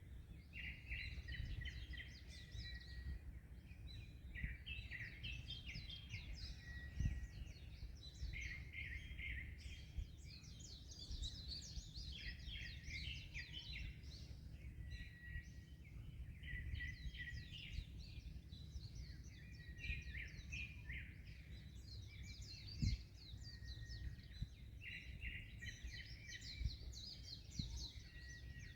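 Many songbirds chirping and trilling at once, with short repeated whistled notes, over a steady low rumble of wind and sea waves. Two brief low thumps stand out, about a quarter and four-fifths of the way through.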